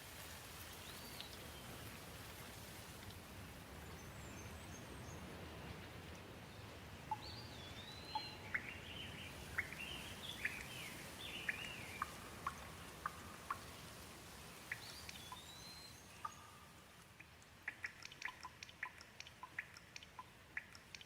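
Steady gentle rain hiss with birds calling over it: short rising and falling chirps and whistles through the middle, and a run of quick, sharp ticks near the end.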